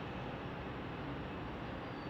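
Steady rumble of distant jet aircraft engines across the airfield.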